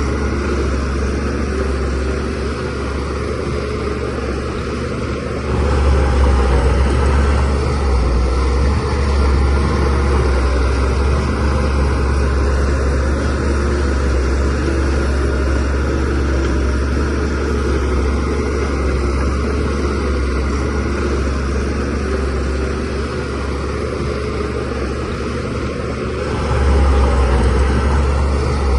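DH17C3 crawler bulldozer's diesel engine running under working load, steady throughout, growing louder about five seconds in and again near the end as it takes more load.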